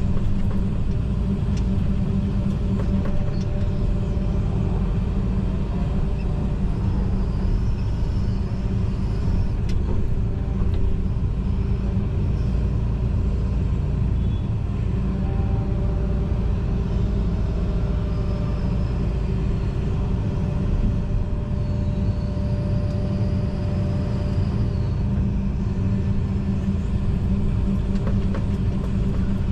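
John Deere 245G excavator's diesel engine running steadily under load, heard inside the cab as a low rumble. Faint whining tones come and go partway through.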